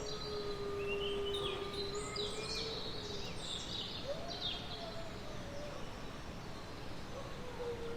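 Forest ambience: small birds chirping over a steady hiss, with long drawn-out wolf howls, one held for a few seconds at the start and another rising and falling about four seconds in.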